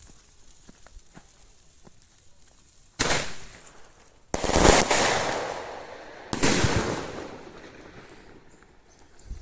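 Three loud firecracker bangs, about three, four and six seconds in, each dying away over a second or so.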